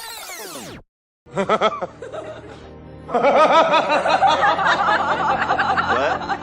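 Laughter sound effect: a few chuckles about a second in, then a louder burst of many people laughing together from about three seconds in.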